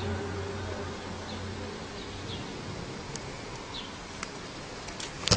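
A low drone fades away over the first two seconds, leaving faint outdoor ambience with a few short high chirps and scattered small clicks. A sharp knock comes near the end.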